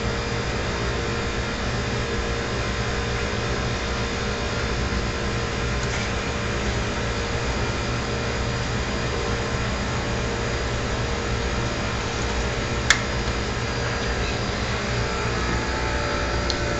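Triangle blower motor running steadily: an even whir of air noise with several fixed tones in it. There is a single sharp click about thirteen seconds in.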